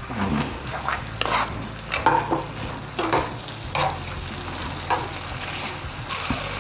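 Chicken pepper fry sizzling in a non-stick pan while it is stirred and tossed with metal tongs, one stroke about every second over a steady sizzle.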